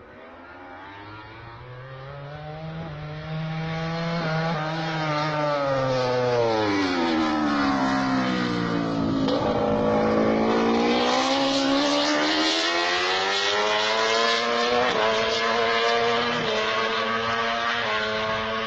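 Ducati Panigale V4 motorcycle's 1,103 cc V4 engine running, growing louder over the first few seconds. Its revs fall steadily for several seconds, then climb again about halfway through and hold high to the end.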